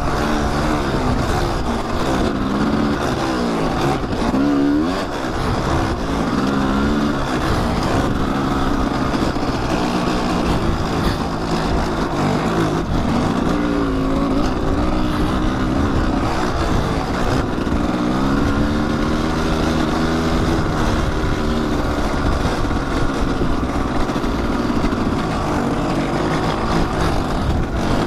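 Kawasaki dirt bike's engine being ridden, revving up and dropping back again and again as the throttle opens and closes.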